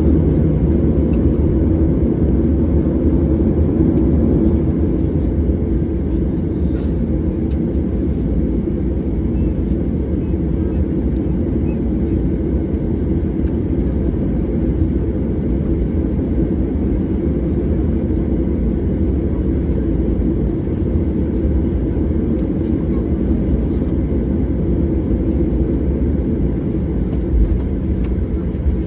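Steady low rumble and hum inside an airliner cabin on the ground after landing, with the engines running at low power.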